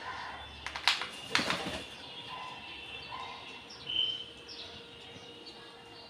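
Small birds chirping here and there in the background. Two short, harsh, louder sounds come about one and one and a half seconds in.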